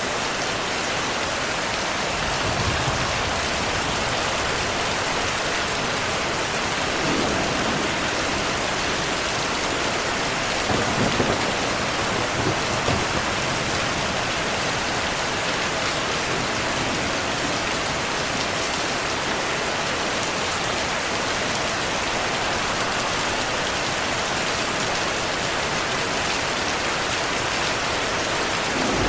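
Steady heavy rain with low rumbles of thunder, the strongest about eleven to thirteen seconds in.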